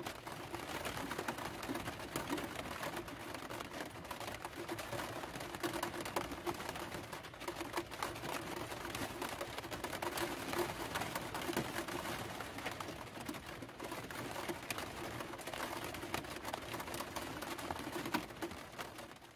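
Rain tapping on the roof of a van, heard from inside: a dense, irregular patter with a faint steady hum underneath, fading out at the very end.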